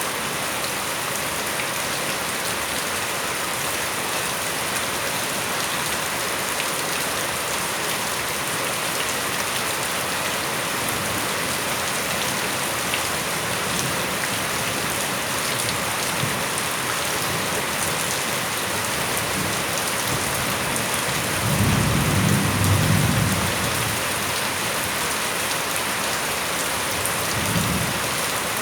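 Steady heavy rain falling, a dense even hiss. About three-quarters of the way through, a low rumble swells for a couple of seconds, with a briefer one near the end.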